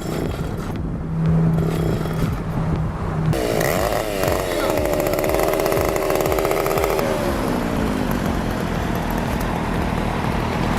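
An engine running, its pitch rising and falling as it revs. There is an abrupt change to a different engine sound about three seconds in, and a falling glide near the seven-second mark.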